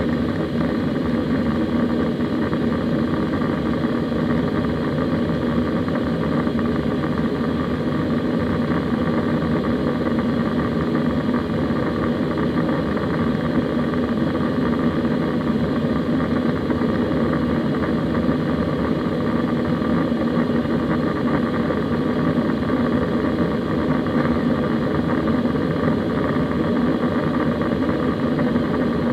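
Steady cabin noise of an Airbus A320 airborne: a constant engine drone and rush of air, with a steady low hum and fainter higher tones that do not change.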